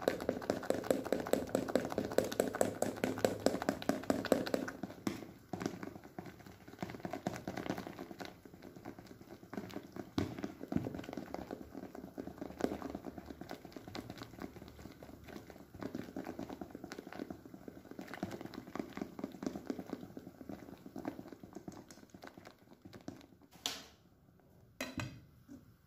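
Rapid, even clicking and scraping strokes of kitchen prep work, busiest and loudest in the first five seconds and fainter after, with two sharp knocks near the end.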